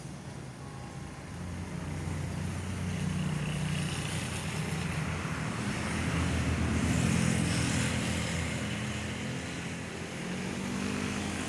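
Diesel locomotive engine running under load as it pulls a passenger train away. It grows louder to a peak about seven seconds in, then eases off.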